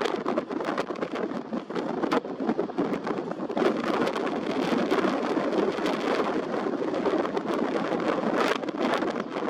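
Heavy typhoon swell rushing and breaking on the shore, with wind buffeting the microphone in scattered crackles and thumps.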